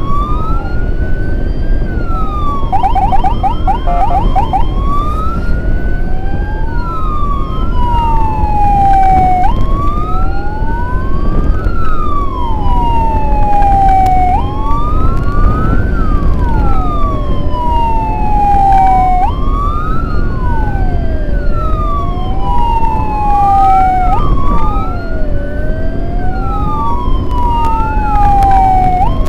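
Two electronic emergency sirens of an ambulance escort wailing together out of step, each rising and falling over a few seconds, with a brief rapid yelp about three seconds in. A steady rumble of road and wind noise runs underneath.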